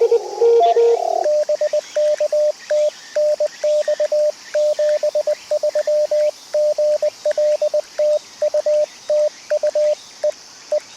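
Morse code (CW) from an amateur-radio HF transceiver: for about the first second an incoming station's keyed tone sounds in receiver hiss, then the hiss drops out and the rig's own higher sidetone keys a long string of dots and dashes as the operator transmits, at around 20 words per minute.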